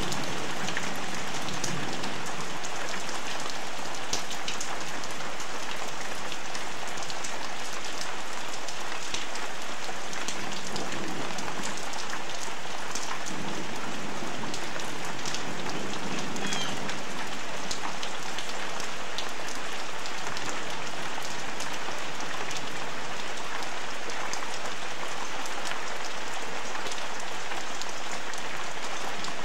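Heavy rain falling steadily, a dense even hiss with a fine patter of individual drops.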